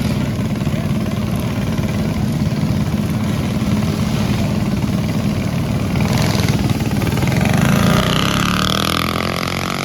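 Mini bike engines running steadily on the race track. About eight seconds in, one bike gets louder and its higher engine note drops in pitch as it passes close by.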